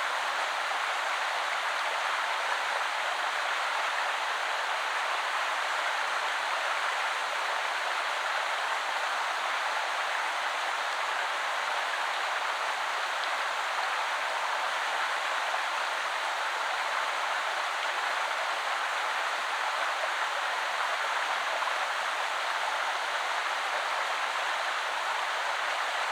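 Woodland river flowing: a steady, even rush of water that does not change.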